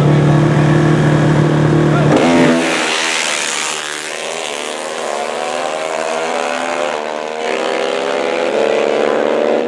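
Racing ATV engines at a drag strip: a steady low engine note for about the first two seconds, then an abrupt change to a higher, wavering engine whine that steps up in pitch twice later on.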